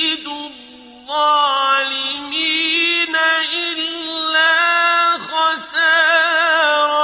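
A solo voice chanting Quranic recitation in the melodic tajweed style, with long held notes and ornamental wavering turns in pitch. There is a short breath-pause near the start, then the line resumes.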